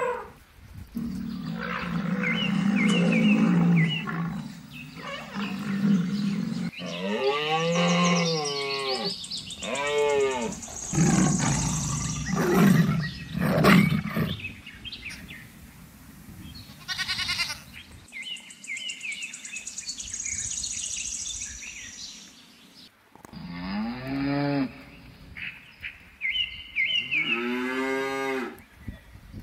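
A run of recorded animal calls laid over the picture, mainly cows mooing: several long moos with gaps between them, and other animal calls in between.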